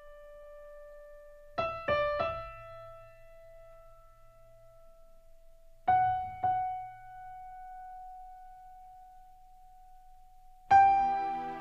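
Slow solo piano music: a few single notes struck one after another, each left to ring out and fade, with a fuller chord coming in near the end.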